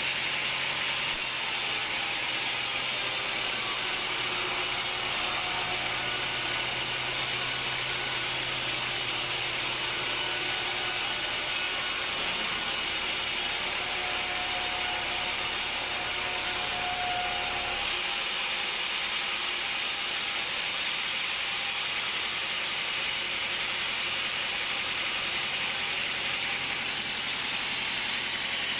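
Sawmill machinery running steadily: a constant rushing noise, with a low hum that stops about 18 seconds in.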